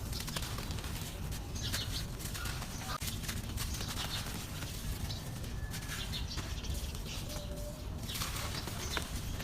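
Dry, grainy red dirt crumbling and breaking apart, a run of scattered crackles and rustles over a steady low rumble.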